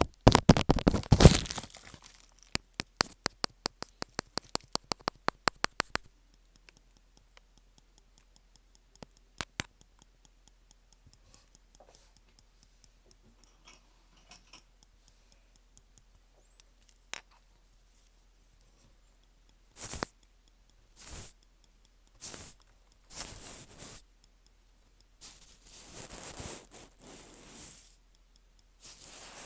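Close-miked ASMR trigger sounds with no talking. The first few seconds are a fast run of sharp clicks or taps, followed by sparse faint ticks. In the second half come several short crinkling, rustling bursts.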